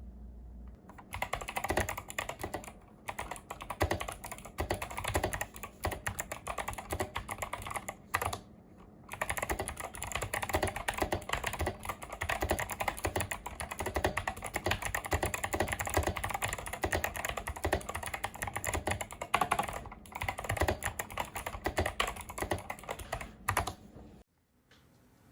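Typing on an 8BitDo retro mechanical keyboard: a fast, uneven run of key clicks with a few short pauses, stopping shortly before the end.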